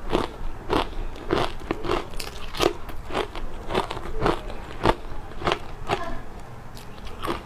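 Close-miked chewing of ice coated in matcha powder: a run of sharp, crackling crunches, about two a second at an uneven pace.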